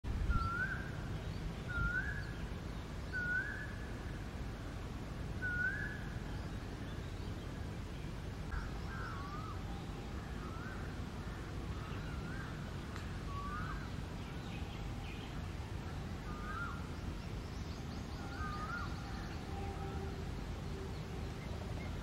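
A bird whistling: short, clear rising notes about every second and a half, then, after a pause, a looser run of rising and falling whistles. Steady low background noise runs underneath.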